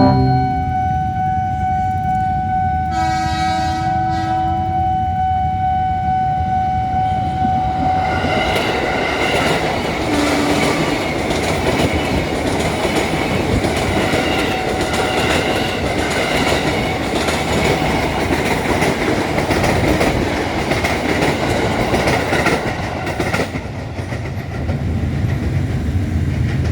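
A long, steady horn blast for about eight seconds, then a heavy vehicle rumbling and rattling past for about fifteen seconds before the noise drops away.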